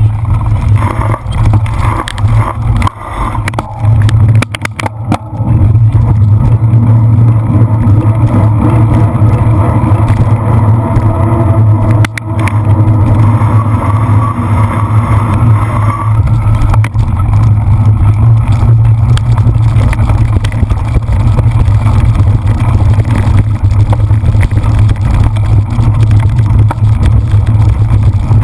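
Heavy, steady low rumble of wind buffeting a bicycle-mounted camera's microphone as the rider races a cyclocross lap, with a few sharp knocks from the bike jolting over rough ground.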